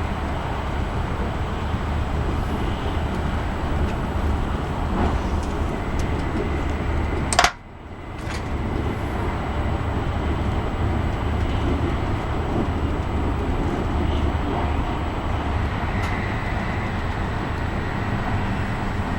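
Cabin noise of an E5 series Shinkansen running at speed, a steady low rumble. About seven and a half seconds in there is a sharp click, the noise drops away abruptly, then builds back up over a second or so.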